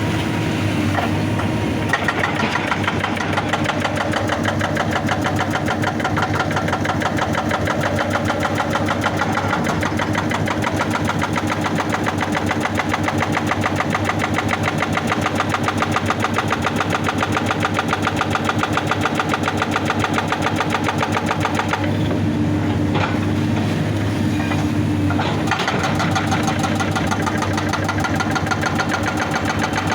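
Excavator's hydraulic rock breaker hammering rock in a fast, even rattle over the steady drone of the machine's diesel engine. The hammering stops for about three seconds near the end, leaving the engine running alone, then starts again.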